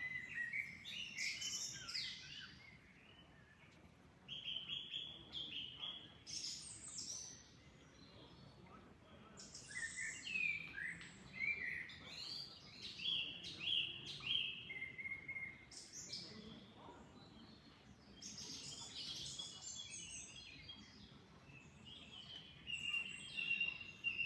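Songbirds singing in short phrases of whistles and trills, pausing for a second or two between bursts, over a faint steady wash of flowing water.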